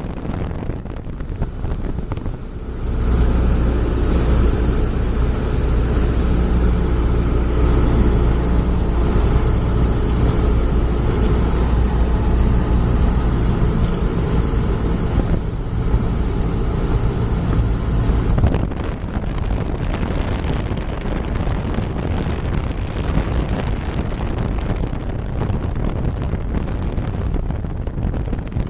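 Aircraft engines running during a landing, with a low drone and a high whine over a steady rush of noise. The sound grows louder about three seconds in and drops back suddenly about eighteen seconds in.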